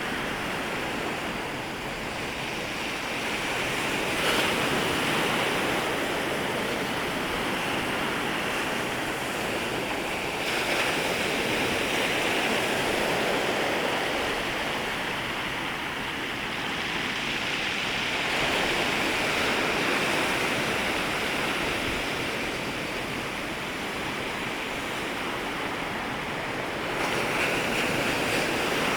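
Waves breaking and washing on the shoreline in a continuous surf, swelling and receding every several seconds.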